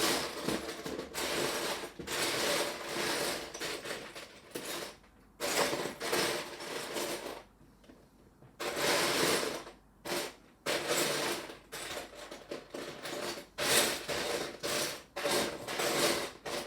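Hands rummaging through a pile of loose Lego pieces, the small plastic bricks rattling and clattering in repeated bursts with short pauses between them, while searching for one small part.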